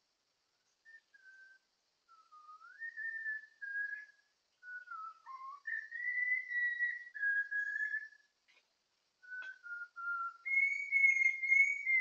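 A bird singing a run of clear, slurred whistled phrases, each a second or two long, wandering up and down in pitch with short pauses between them; the loudest phrase comes near the end.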